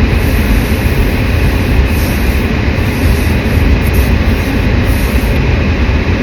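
Steady, loud rumbling noise of a car driving, heard from inside the cabin.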